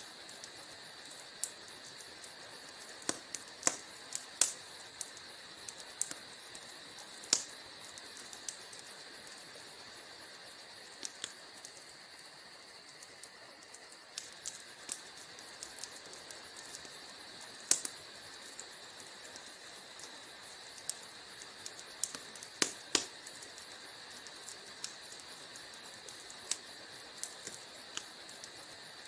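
Wood fire crackling in a fireplace: irregular sharp pops and snaps over a steady soft hiss, with a few louder snaps scattered through.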